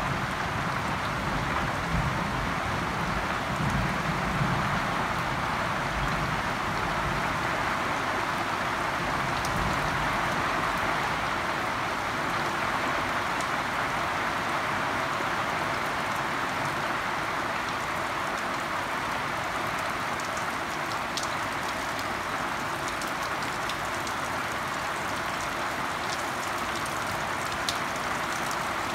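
Steady rain falling in a continuous hiss, with a low rumble in the first few seconds and a few sharp drop ticks near the end.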